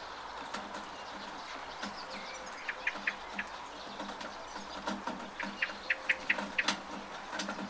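Steady rain with scattered drips, while a small bird chirps in two quick runs of short chirps, about three seconds in and again near the end.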